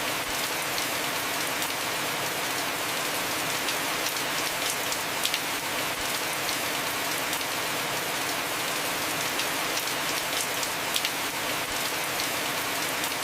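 Heavy rain falling steadily on a roof, a dense even hiss with scattered louder drop hits.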